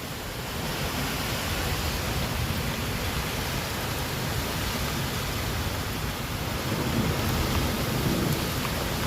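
Steady hiss of rain falling, with a low uneven rumble underneath.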